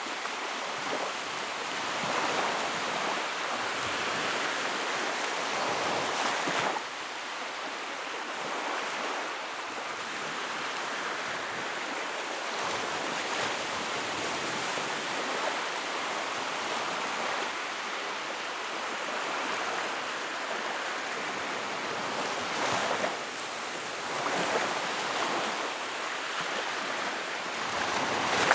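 Sea waves washing in, a continuous surf noise that swells and eases every few seconds. There is a sudden drop in loudness about seven seconds in.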